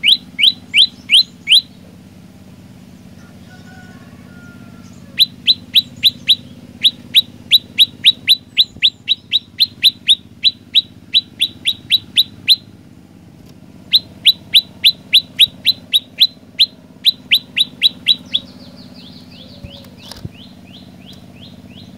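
Olive-backed tailorbird singing: loud runs of sharp, quickly falling notes, about four a second, broken by short pauses. A fainter, higher run of shorter notes comes near the end.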